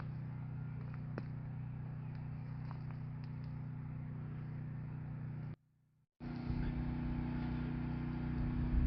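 Steady low engine hum with a few faint clicks, broken by a short gap of dead silence about five and a half seconds in before the hum resumes.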